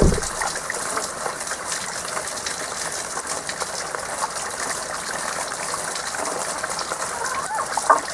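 Spring water flowing steadily, with a short low thump right at the start. The frogs' pulsed calls heard around it are mostly silent here, with a few starting again right at the end.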